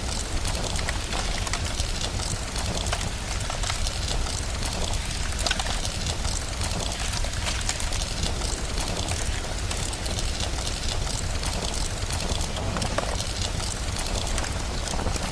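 Steady rain with a crackling fireplace, many small sharp pops scattered through it over a constant low rumble.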